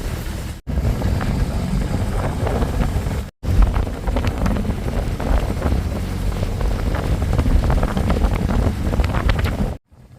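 Wind buffeting the microphone on a motorbike riding at speed, with a low rumble of engine and road underneath. The sound cuts out briefly twice, then drops away to something much quieter just before the end.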